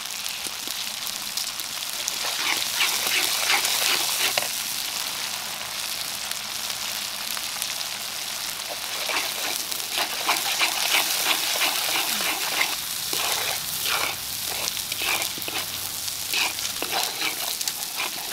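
Masala sizzling in hot oil in a wok, with a steel spatula stirring and scraping against the pan in quick runs of strokes, busiest about two seconds in and again from about nine seconds.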